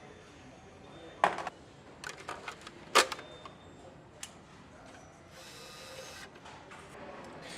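Assembly-line work noise: sharp metal clicks and knocks, the two loudest about a second and three seconds in, then a short hiss lasting about a second.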